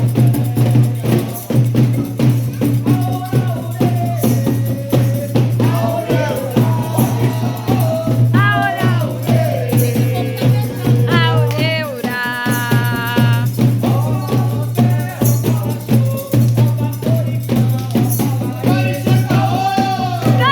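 Candomblé ceremonial music: drums and rattles beating a fast, steady rhythm, with voices singing over them.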